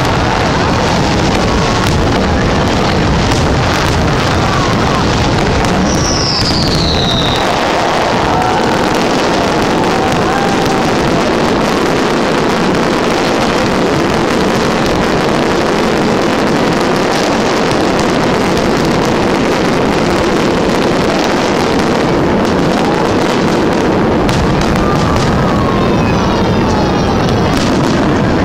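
Fireworks display heard among a crowd: repeated bangs and crackles over a steady, loud wash of noise, with a short falling whistle about six seconds in.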